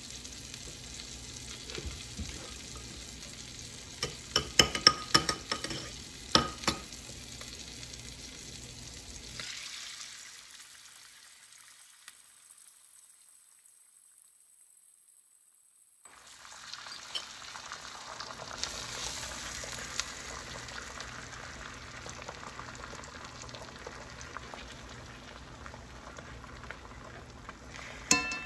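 Butter and meat drippings sizzling in an electric skillet, with several sharp clinks of a utensil against the pan about 4 to 7 seconds in. The sound fades away midway, then sizzling comes back stronger as beaten eggs fry in the hot fat, with a clink near the end.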